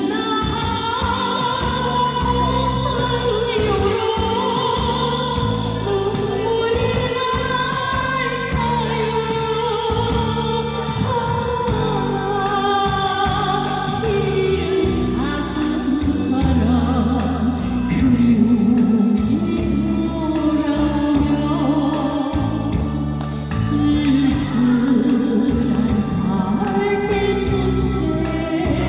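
A woman singing a Korean song with sustained, gliding notes over instrumental accompaniment.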